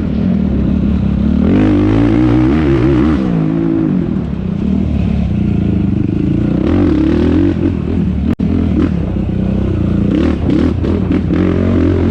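Yamaha YFZ450R quad's single-cylinder four-stroke engine running hard under racing load, its pitch rising and falling as it revs up and backs off. The sound cuts out for an instant about eight seconds in.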